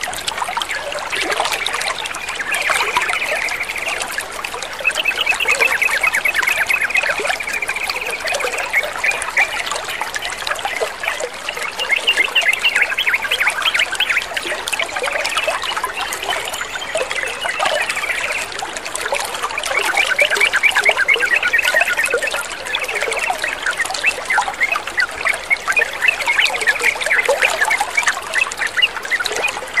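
Water trickling and babbling steadily, with dense rapid gurgling ticks that swell and ease every few seconds.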